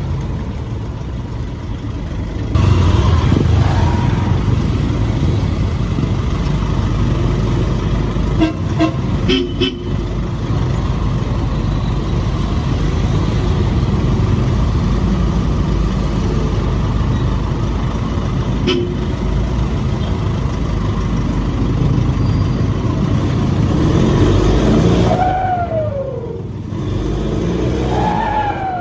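Nissan Navara's turbocharged engine under way with its muffler deleted, a loud steady exhaust drone that jumps up about two and a half seconds in as it accelerates. Near the end, twice, a whistle rises and then falls as the throttle lifts and the level drops: the turbo flutter.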